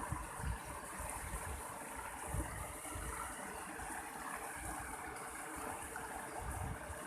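Mountain stream water rushing and splashing steadily, with irregular low rumbles underneath.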